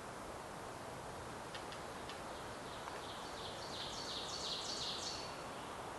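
A songbird singing a quick run of repeated high notes from about two and a half seconds in to about five seconds, over steady background hiss.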